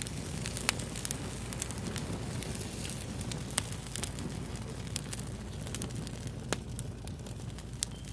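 Fire crackling: a dense run of small crackles with several sharp louder pops, over a steady low rumble.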